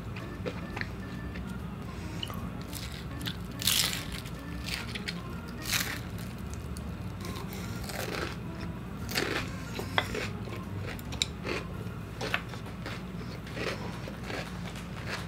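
Close-miked eating sounds: chewing a mouthful of Indomie Mi Goreng noodles and fried enoki, with a dozen or so short, louder crunchy bites and mouth sounds scattered through.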